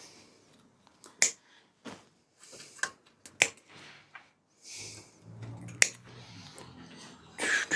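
Bicycle brake and gear cables being cut with cable cutters: several sharp snaps, a second or two apart.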